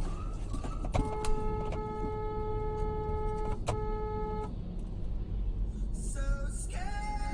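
Car driving noise, a low rumble from the road and engine. About a second in, a steady multi-tone sound like a held car horn or a sustained electronic tone starts with a click, holds for about three and a half seconds and stops. A different pitched sound rises in near the end.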